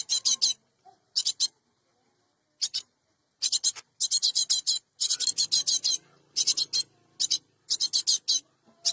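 Cinereous tit (gelatik batu) giving harsh, rapid chattering calls in short bursts, about a dozen rattles of quick-fire notes separated by brief pauses.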